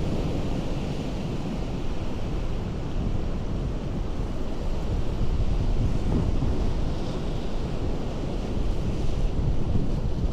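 Ocean surf on a rocky coast: a continuous rush of breaking waves that swells slightly a few times, with some wind on the microphone.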